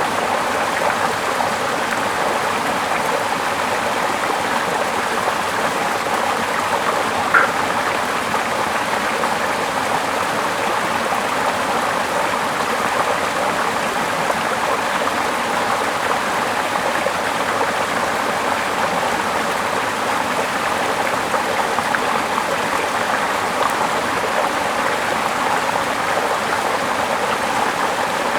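A small river rushing and splashing over rocks in a steady flow, with one brief sharp click about seven seconds in.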